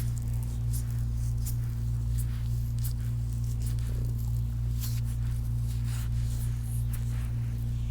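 Hands stroking and rubbing the skin of a man's foot during a massage, a run of soft, irregular swishes and light clicks, over a steady low hum.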